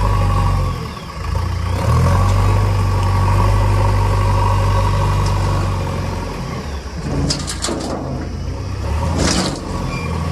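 Heavy diesel engine running under load, its speed dipping about a second in and picking up again, then easing off. A few sharp ticks come around seven seconds, and a brief hiss near the end.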